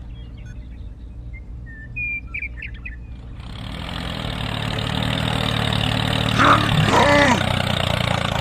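Engine running steadily with a low hum, with several short bird chirps about two seconds in.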